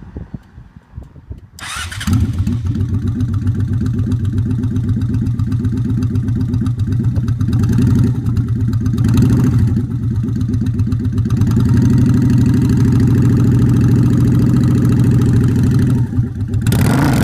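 Motorcycle engine started about a second and a half in, then running steadily with an even throb; near the end it gets suddenly louder as it is revved.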